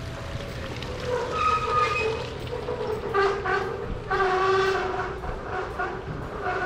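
Train running, with a high, wavering whine of several tones that sets in about a second in and keeps shifting in pitch.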